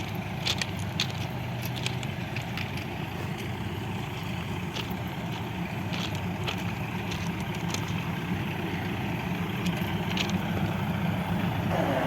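Steady low drone of a vehicle's engine and running gear, with scattered light clicks and knocks.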